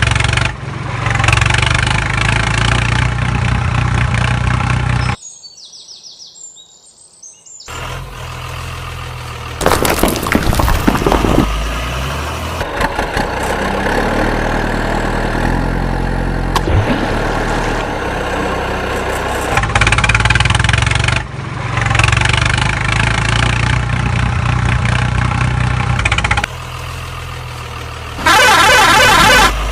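Heavy vehicle engines running and idling in a series of abruptly cut segments, with a brief near-silent gap about a fifth of the way in. A short, loud burst of a different, rapidly pulsing sound comes near the end.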